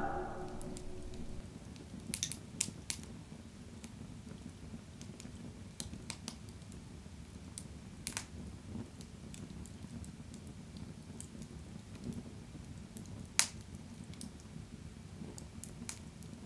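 Fire burning in a fireplace: a steady low rumble of flames with scattered sharp crackles and pops, the loudest about thirteen seconds in.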